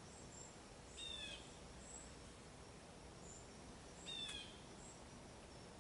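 Faint outdoor ambience with a bird calling twice, a short falling note about a second in and again about four seconds in, and faint high chips between.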